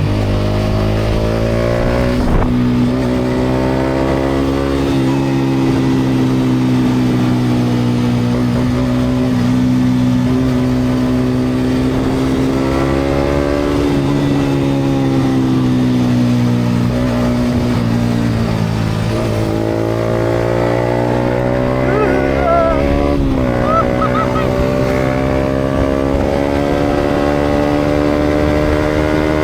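Yamaha MT-125's single-cylinder four-stroke engine through a GPR aftermarket exhaust, running under way with road noise. The engine note rises over the first few seconds, holds, sags about halfway through and climbs again near the end as the throttle changes.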